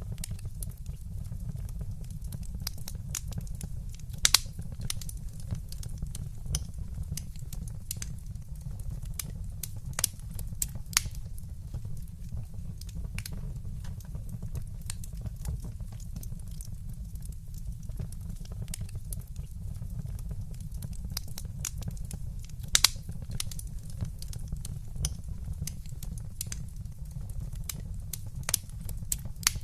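Wood fire burning in a fireplace: a steady low rumble of the flames with scattered sharp crackles and pops, a few louder snaps standing out.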